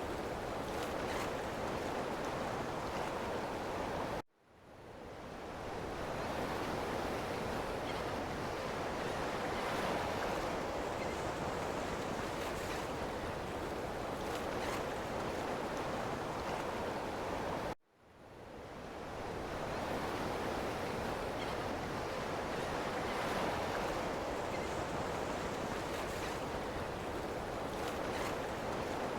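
Ocean waves washing in a steady rush of surf noise. Twice the sound cuts out abruptly and fades back in over a second or two.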